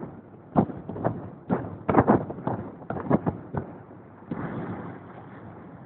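A rapid, irregular run of sharp thumps and knocks over about three seconds, then a short burst of noise.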